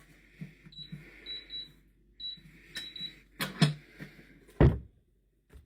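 Electronic keypad safe beeping as a code is keyed in, about six short high beeps, followed by a few sharp clicks and a louder thump from the safe's lock and door.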